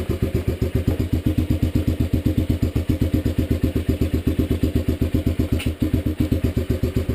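Dirt Runner mini bike's small single-cylinder engine idling with an even, steady beat just after a cold start with the choke on. A short click sounds near the end.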